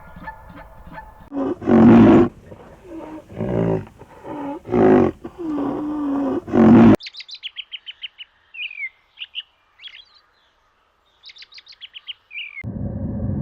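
A large animal's loud pitched calls, several in a row, for the first half; then an abrupt cut to a small bird's quick high chirps and short trills, and a steady rushing noise starts near the end.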